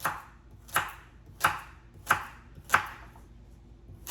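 Knife chopping carrots on a cutting board: sharp, evenly spaced chops, about three every two seconds, with a slightly longer pause before the last one.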